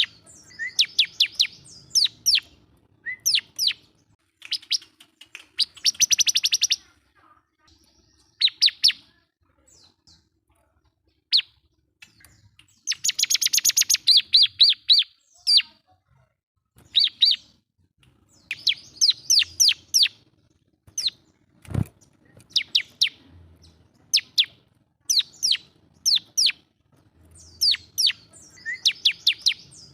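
Bar-winged prinia (ciblek) singing hard in a rival-challenging song: loud bursts of sharp, high chirps, with fast rattling trills about six and thirteen seconds in. A single sharp click sounds about two-thirds of the way through.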